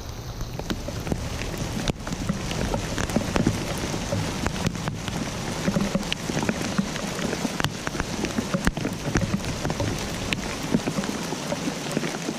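Steady rain, with many separate drops tapping sharply on a surface over a constant hiss and a low rumble underneath.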